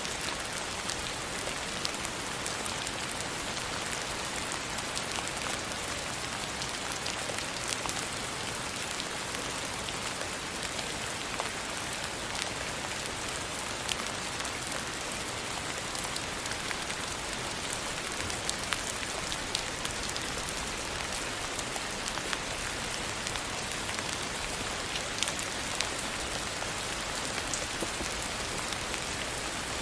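Steady rain falling, an even hiss with sharp ticks of single drops scattered through it.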